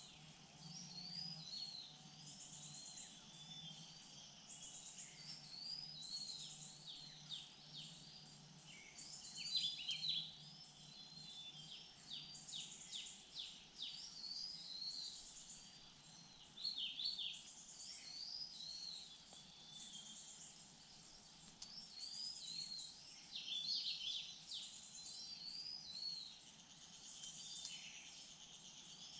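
Small wild songbirds calling over and over with short, high, curved chirps, several birds at once, over a faint steady insect drone.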